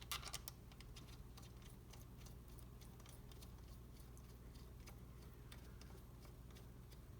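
Light metallic clicks of small engine parts being handled while a connecting rod cap is fitted: a quick cluster at the start, then scattered faint ticks over a low steady hum.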